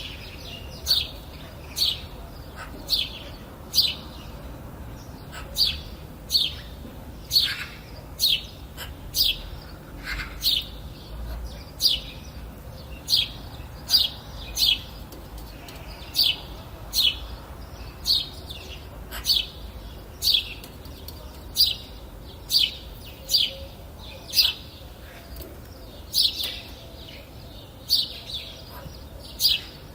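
A bird chirping repeatedly: short, sharp, high chirps, about one a second, sometimes in quick pairs.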